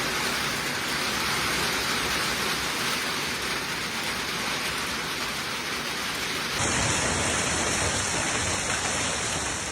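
Heavy rain pouring down in a thunderstorm, a dense steady hiss of falling water. About six and a half seconds in it cuts abruptly to another recording of the same kind of downpour, with a fuller low end.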